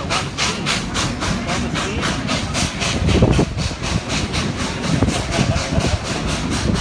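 Southern Pacific 2472, a 4-6-2 Pacific steam locomotive, chuffing steadily at about four exhaust beats a second, heard over the low rumble of the moving train.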